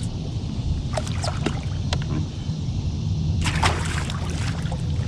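Water sloshing and splashing beside a fishing kayak as a blue catfish is lowered back into the river and released, with a larger splash about three and a half seconds in, over a steady low rumble.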